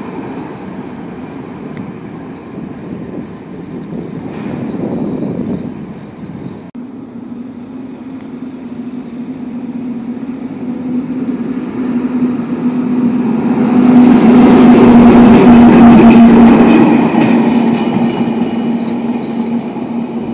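A freight train's wagons rolling away along the track. After a break, a train runs past, with a steady low tone, swelling to its loudest about two-thirds of the way through and then fading.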